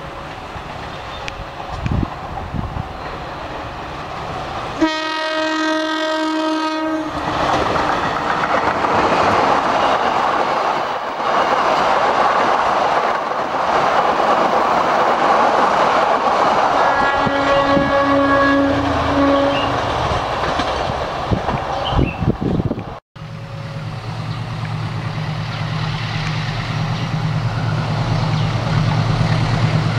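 Indonesian diesel-electric passenger train passing: a locomotive horn blast of about two seconds comes about five seconds in, then the steady noise of the coaches running past on the rails, with a second, shorter and slightly lower horn blast partway through. After a sudden cut near the end, a second diesel locomotive approaches with a steady low engine hum.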